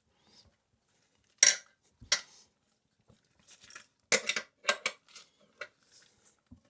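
Sharp clicks and clinks of hard plastic and porcelain toilet parts being handled and set in place. Two single knocks come first, then a quick run of clicks about four seconds in.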